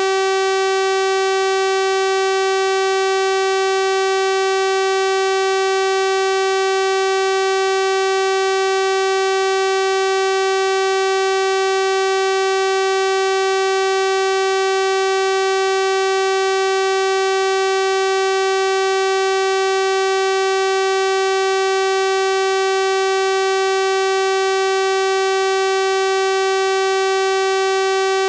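Synthesized 384 Hz sawtooth-wave tone, a steady buzzy electronic drone with bright overtones, unchanging in pitch and level.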